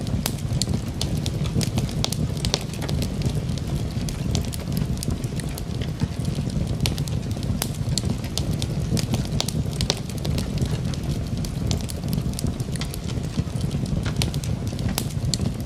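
Wood fire crackling in a fireplace: a steady low rumble of flames under frequent, irregular sharp pops and snaps.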